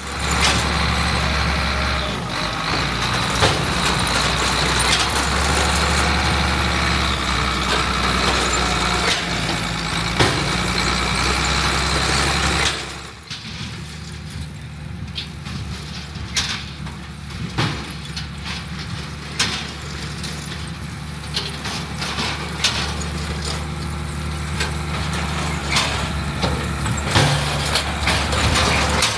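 Heavy diesel farm machinery running steadily. About 13 seconds in, the sound cuts abruptly to a quieter machine running, with scattered sharp clicks and knocks.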